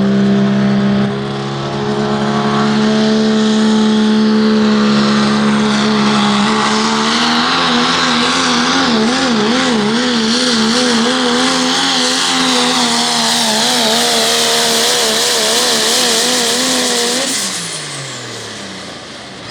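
Pro stock diesel pickup truck engine running at full throttle while pulling a sled, with a steady high hiss over it. About a third of the way in the engine pitch starts wavering quickly up and down, and near the end the engine drops off, falling in pitch and level.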